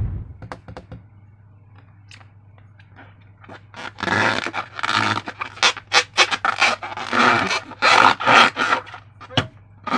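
Slime being squeezed and worked with a balloon: a few faint clicks, then from about four seconds in a run of short wet squelches, some squeaky, about two a second.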